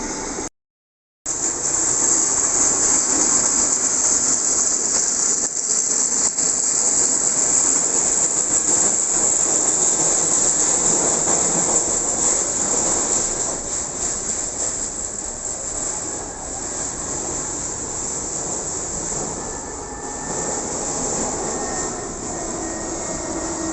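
Jet airliner engine noise, a loud steady roar that lasts throughout, with a faint shifting whine late on. The sound cuts out for under a second near the start.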